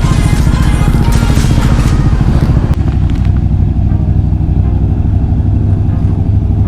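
Background music over a running motorcycle; a little under three seconds in the music cuts off, leaving the steady low drone of the motorcycle under way.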